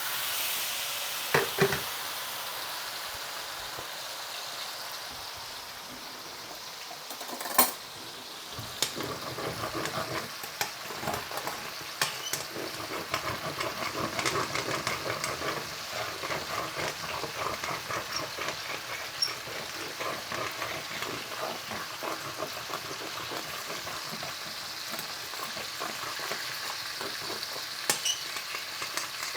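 Water sizzling and hissing in a hot frying pan as it deglazes the stuck-on fond, then a utensil scraping and stirring against the pan in quick strokes from about eight seconds in, over continued sizzling.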